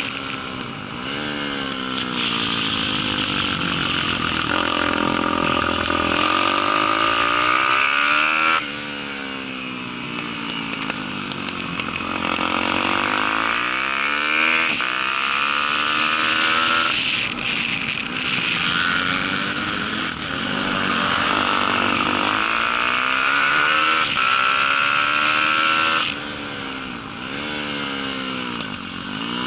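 Pit bike's Daytona 190 four-stroke single-cylinder engine at racing speed, revving up and down through the gears as it accelerates and slows for corners. The revs and loudness drop sharply about 8 seconds in and again near the end.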